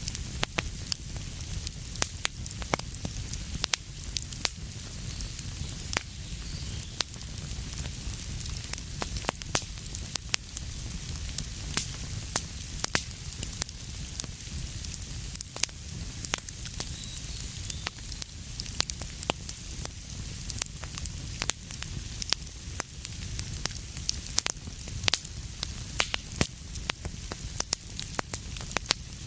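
Wood fire burning with a steady low rumble and hiss, and frequent sharp crackles and pops at irregular intervals, several a second.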